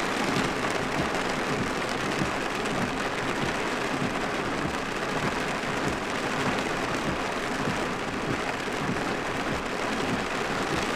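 Heavy rain drumming on a truck's roof and windshield, heard from inside the cab: a dense, steady patter.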